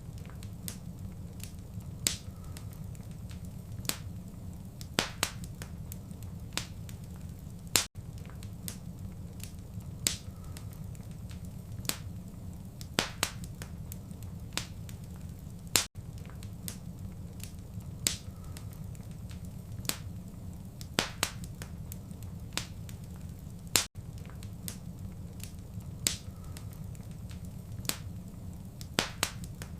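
Fireplace wood fire crackling: sharp, irregular pops and snaps over a steady low rumble of the flames. The same stretch of sound repeats about every eight seconds, with a brief dropout at each join of the loop.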